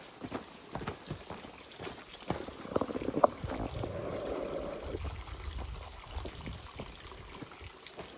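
Footsteps on a trail, with running water heard louder for a few seconds in the middle.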